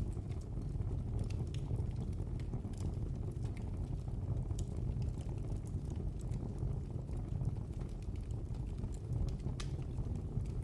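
Wood fire burning in a fireplace: a steady low roar from the flames, with sharp crackles and pops every second or two.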